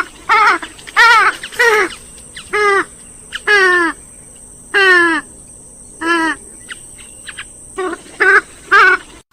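A rail-family waterbird of the kind sold as swamphen and moorhen calls, calling loudly about eleven times in short calls that each fall in pitch. The calls come in quick runs with a longer pause in the middle, and the recording cuts off abruptly near the end.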